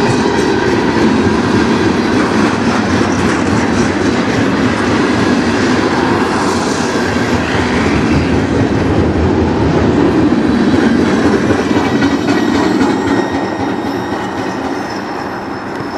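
Freight train cars (tank cars and autoracks) rolling past close by: a steady, loud rumble of steel wheels on the rails, easing off slightly near the end.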